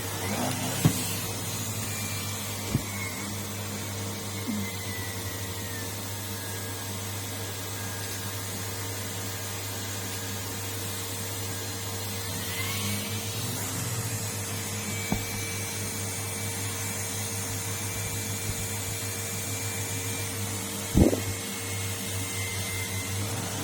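Numatic Henry cylinder vacuum cleaner running steadily, a hum under a hiss of rushing air, with a faint whistle that slides in pitch now and then. A few sharp knocks come through it, the loudest about 21 seconds in.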